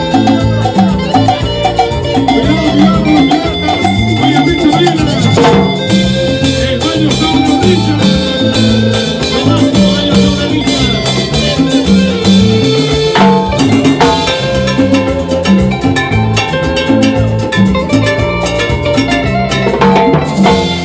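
Band playing Latin dance music, with a moving bass line under steady percussion and melodic lines.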